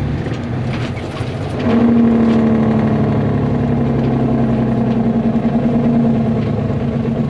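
Caterpillar C10 diesel in a Peterbilt cabover running hard through a single straight pipe with the muffler removed, a loud, rough bark that swells about two seconds in and eases off near the end.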